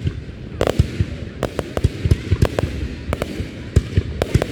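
Fireworks going off: a rapid, irregular series of sharp bangs, several a second, over a continuous low rumble of more distant explosions.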